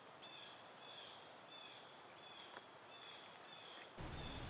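Faint bird chirps, short even notes repeated about twice a second over a soft hiss. Near the end a louder low rumble of outdoor background comes in.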